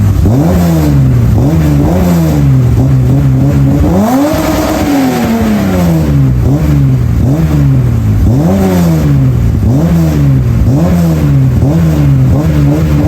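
BMW E30 325is's M20 2.5-litre straight-six revved through its new full custom exhaust: short throttle blips about once a second, with one longer, higher rev held for about two seconds around four seconds in.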